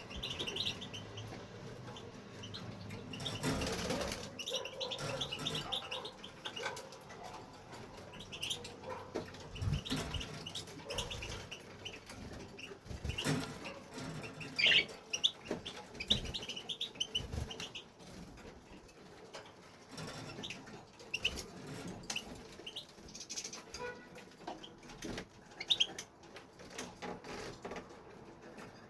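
European goldfinch giving short clusters of high twittering chirps, mixed with bouts of wing fluttering and small knocks from birds moving about an aviary.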